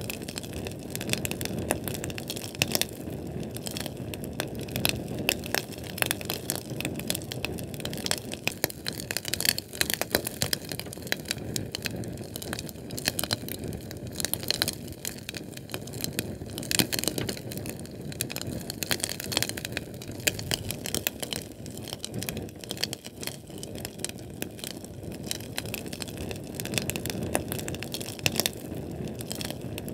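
Fire burning: dense, rapid crackles and pops over a low rushing roar of flame.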